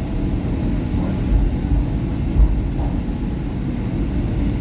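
SEPTA Market-Frankford Line train running between stations: a steady low rumble of wheels on rail, with a couple of short louder knocks about a second and a half and two and a half seconds in.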